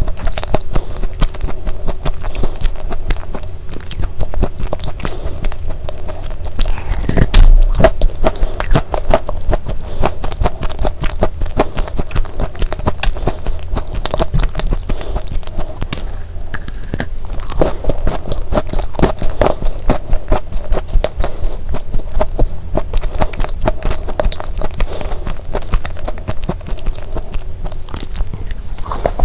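Close-miked chewing and biting of a thick sandwich cookie with a crumbly shortbread shell and soft filling, heard as a dense run of small wet clicks.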